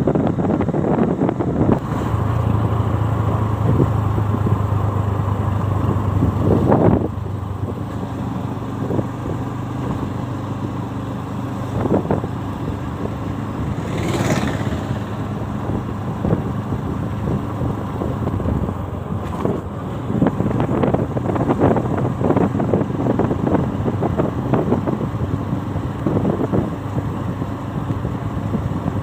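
Motorcycle engine running under way, with wind and road noise rushing past. A steady engine hum in the first seven seconds drops back, as if the throttle were eased.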